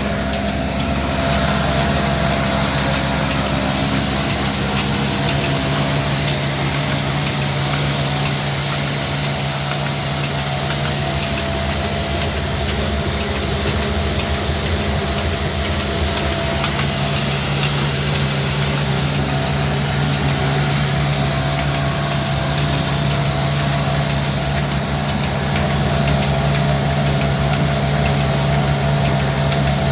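Old diesel engine running steadily at an even speed.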